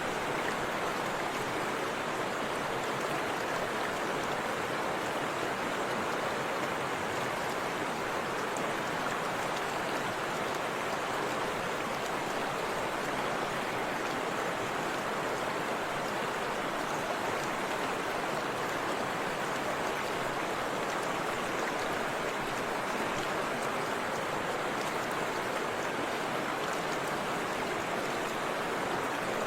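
Forest river flowing over a small waterfall: a steady, even rush of water.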